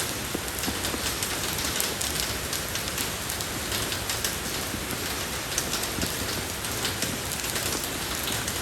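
Steady rain falling on a road, a constant hiss of rainfall with many small drop ticks and patters.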